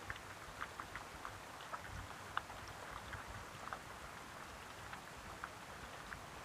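Steady rain falling, with a constant hiss and many separate drops ticking sharply close by, several a second at uneven intervals.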